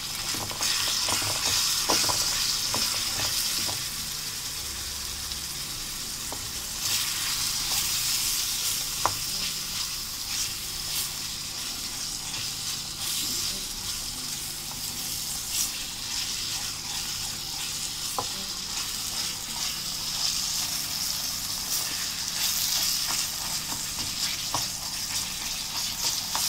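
Chicken mince with tomatoes, onions and spices sizzling in ghee in a small metal wok, stirred with a wooden spatula. A steady sizzle, stronger after about seven seconds, with occasional clicks and scrapes of the spatula against the pan.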